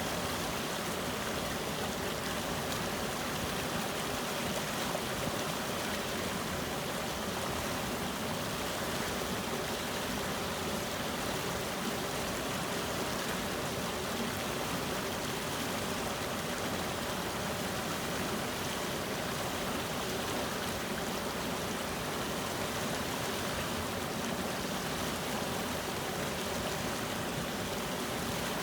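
Spring water flowing steadily: an even, unbroken rush of running water with no changes.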